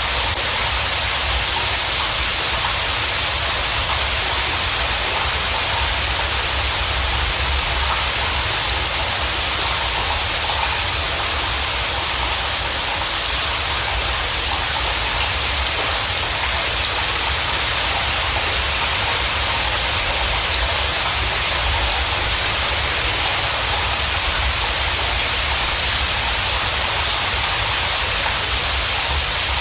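Steady rain: an even hiss of falling drops with a low rumble beneath, unchanging throughout.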